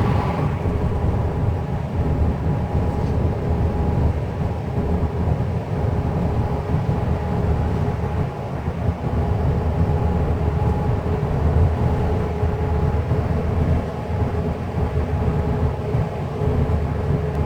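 Steady low rumble of a moving vehicle, with a constant hum running through it.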